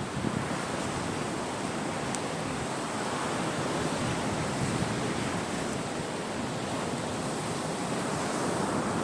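Sea waves breaking and washing onto the Caspian Sea shore: a steady rush of surf that swells gently, with some wind.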